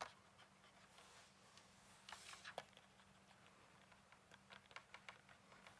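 Near silence with a faint low hum, broken by scattered faint pen-like scratches and light taps, a few more of them about two seconds in.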